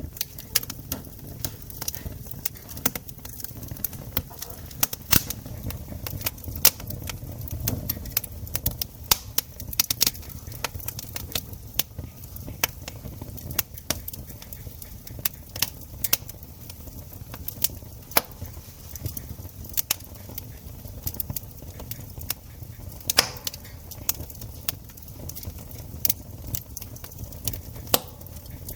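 Wood campfire crackling, with frequent irregular sharp pops and snaps over a low steady rumble of the burning fire.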